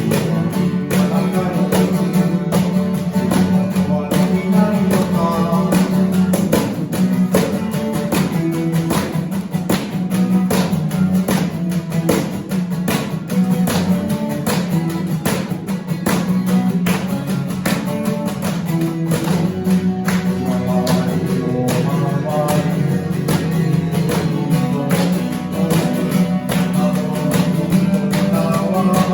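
Live band music led by steadily strummed acoustic guitar over a sustained low bass line, in an instrumental passage of the song.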